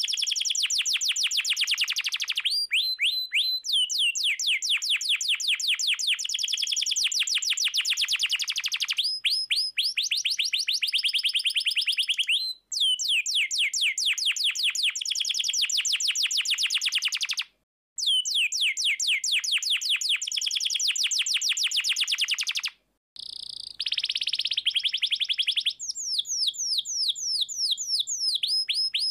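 Domestic canary singing: long, rapid trills of quickly repeated notes that sweep downward in pitch, broken by a few brief silent gaps.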